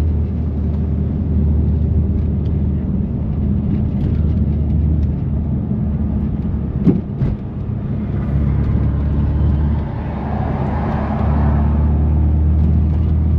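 A BMW F80 M3 Competition's twin-turbo inline-six droning steadily at a low cruise, with catless downpipes and an always-open valved exhaust. A single sharp knock comes about seven seconds in, and a rushing noise swells and fades between about ten and twelve seconds in.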